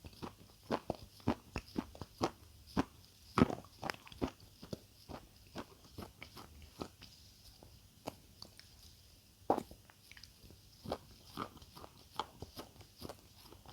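Close-miked chewing of crunchy food: irregular sharp crunches, the loudest about three and a half seconds in, with quieter chewing between bites.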